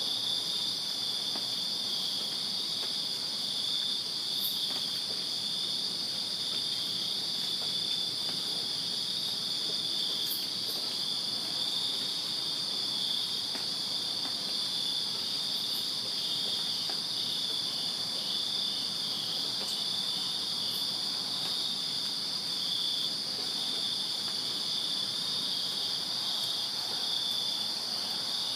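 Crickets chirping in a steady night chorus: a continuous high trill with a second, faster-pulsing trill just below it.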